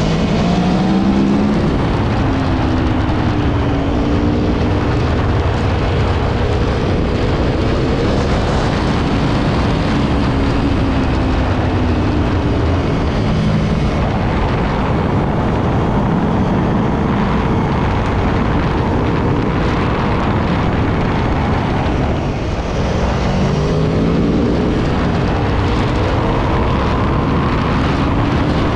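Aprilia Tuono V4 1100's V4 engine running under way, its pitch gliding up and down as it revs, near the start and again a few seconds before the end, under a steady rush of wind and road noise.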